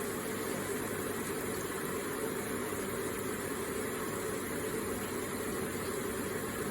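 Electric water feature with water running and splashing steadily, an even, unchanging rush.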